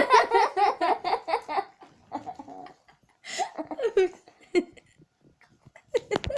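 Laughter: a burst of quick, even 'ha-ha' pulses for the first second and a half, trailing off into quieter giggles and short murmurs.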